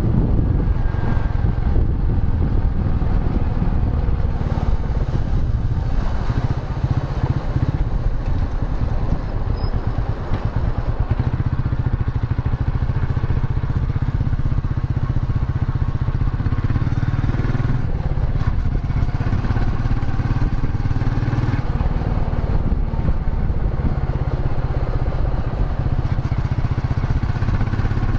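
Royal Enfield Meteor 350's single-cylinder engine running as the motorcycle is ridden, a deep, steady engine note that eases slightly about six seconds in and picks up again around eleven seconds.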